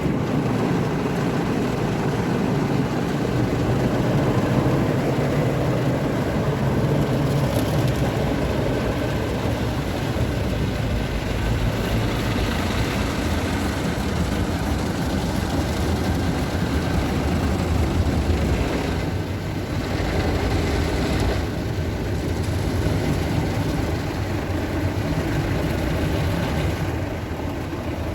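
Istobal MNEX 22 rollover car wash working over a car: a loud, steady mix of machinery and spray noise, shifting briefly about two-thirds of the way through.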